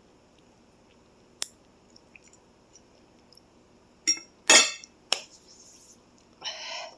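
Eating utensil clinking against a dish of noodles: a single sharp click, then a quick cluster of clicks with a loud short noisy sound among them, and another short noisy sound near the end.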